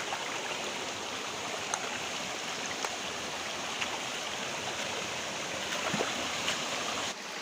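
Flowing water, a steady rushing hiss from a stream or waterfall, with a brief dip near the end.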